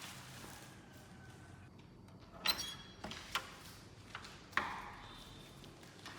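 A few sharp knocks and clicks of hard objects being handled and set down. The loudest, about two and a half seconds in, carries a brief ringing ping, with more knocks following over the next two seconds.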